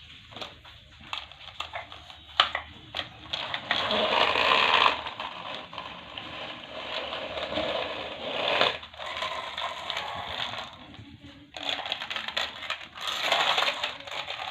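Crunching, scraping noise of objects being handled: a few separate clicks at first, then long stretches of grinding, rustling noise broken by brief pauses.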